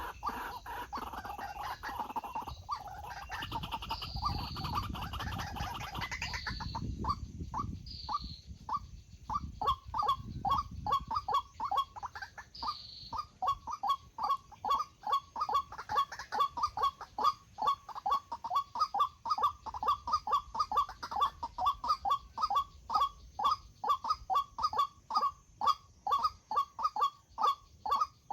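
White-breasted waterhen calling: a long run of short, harsh notes repeated in a steady rhythm, about two to three a second. For the first six seconds the calls are blurred together over a low rumbling noise.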